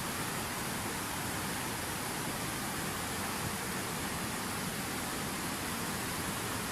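Water from a fountain cascade falling and splashing in a steady, even rush.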